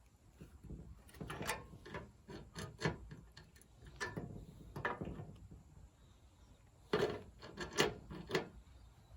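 Light, scattered knocks, clicks and rubbing of small objects being handled, with the sharpest knocks a few seconds in and again about seven to eight seconds in.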